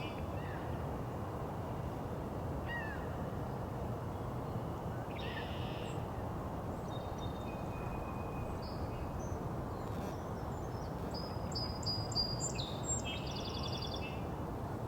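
Songbirds singing in short, scattered phrases over a steady low background rumble. High trilled phrases come about five seconds in and again near the end, with fainter notes between.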